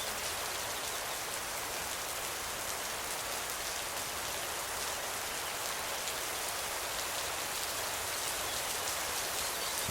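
Steady rain falling under an oak tree's canopy, an even hiss with many fine drop ticks.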